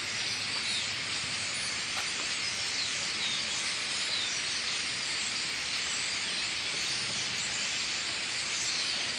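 A huge flock of blackbirds calling all at once from the trees: a loud, steady wall of overlapping chirps with no single call standing out.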